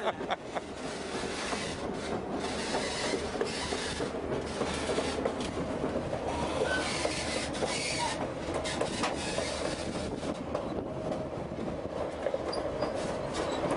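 White Pass & Yukon passenger train running along the track, heard from aboard: a steady rumble of steel wheels on rail, broken by irregular clicks as the wheels pass over rail joints.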